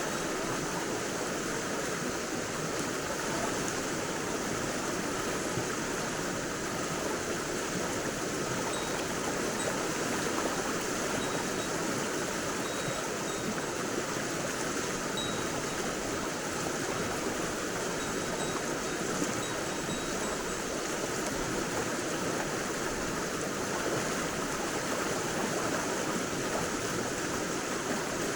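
Mountain stream running steadily, a constant rush of water.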